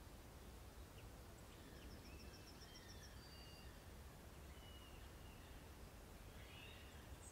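Faint outdoor ambience: distant birds calling, a quick run of about eight short notes and a few brief whistles, over a low background hiss.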